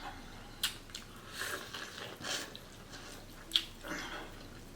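Close-up eating sounds: a person biting and chewing food, with a few sharp wet mouth clicks and smacks.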